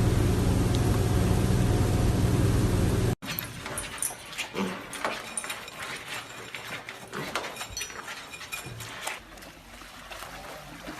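A loud, steady low hum that cuts off suddenly about three seconds in. Then a quieter stretch of small knocks and short faint sounds from a dog, with occasional whimpers.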